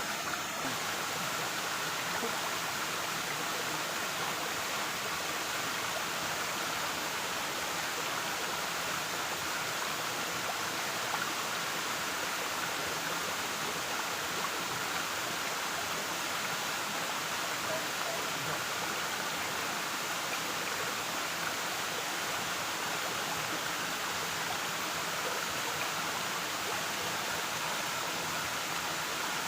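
Waterfall: a steady rush of falling and flowing water.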